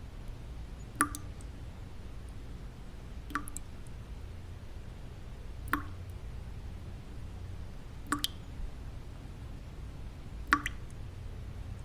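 Single water drops falling one at a time, five in all, about every two and a half seconds, each a short sharp drip. Underneath runs a steady low white-noise rumble.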